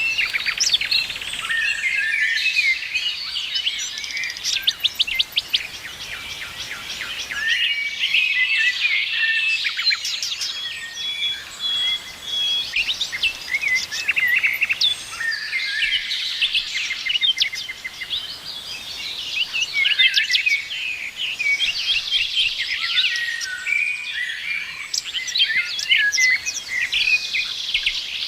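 A chorus of many songbirds chirping, trilling and whistling at once, with calls overlapping continuously.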